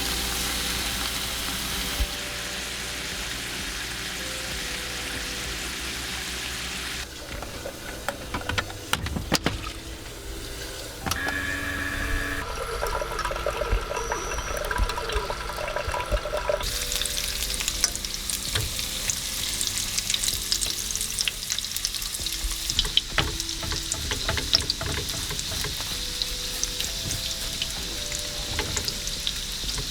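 Breakfast food sizzling as it fries in a pan, with running water and kitchen clatter at times. A quiet music track with held notes plays underneath.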